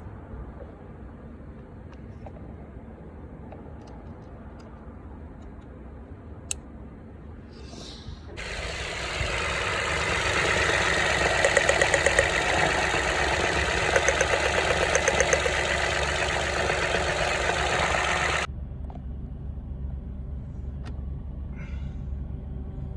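Car engine running with a low, steady idle rumble. About eight seconds in, a much louder, even rushing noise joins it, then cuts off suddenly some ten seconds later.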